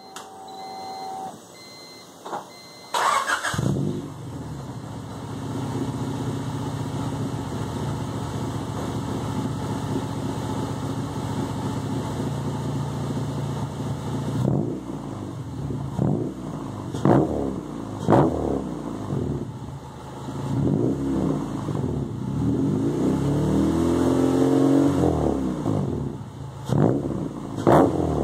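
Honda H23A 2.3-litre four-cylinder breathing through a 3-inch exhaust with a Vibrant muffler, resonator and high-flow cat. It starts about three seconds in and idles steadily, then is blipped sharply a few times and held in longer rises and falls in revs near the end.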